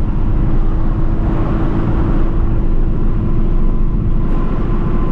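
Procharged Shelby GT350's supercharged 5.2-litre flat-plane-crank V8 and road noise at a steady cruise, with no revving.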